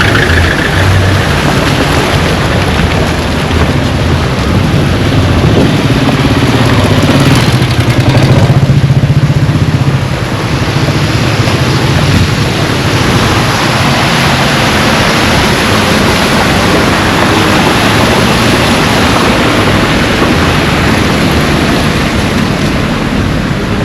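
Motor vehicle engines running close by over a loud, steady rushing noise, loudest about eight to ten seconds in.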